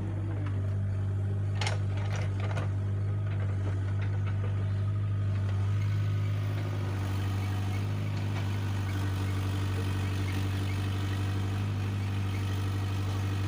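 Diesel engine running steadily at a low, even drone, with a few light clicks about two seconds in.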